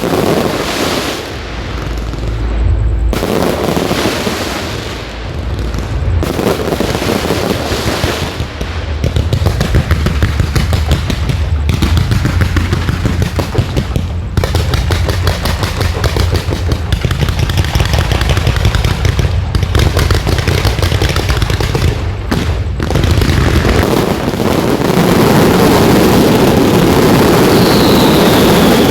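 Fireworks display: a dense, rapid run of shell bursts and crackle, close together like machine-gun fire. A short falling whistle comes near the end.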